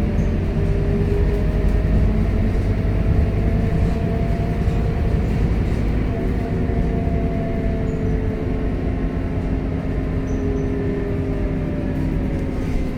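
Scania K230UB city bus under way, heard from on board: a steady low engine and road rumble, with tones from the engine and drivetrain that slowly rise and fall as the bus speeds up and slows.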